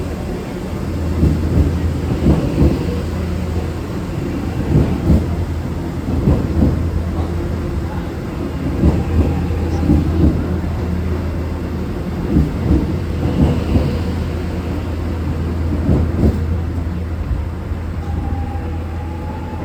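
Metro X'Trapolis electric train moving through the station, its wheels clacking in small groups over rail joints and points above a steady low rumble.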